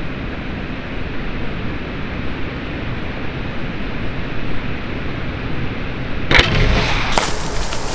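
Strong wind buffeting the microphone, a steady low rumble, with one sharp click about six and a half seconds in.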